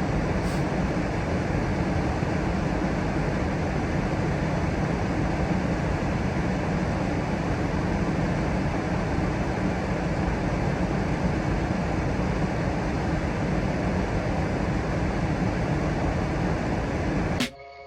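Steady rumbling noise, strongest in the low end, that cuts off suddenly near the end.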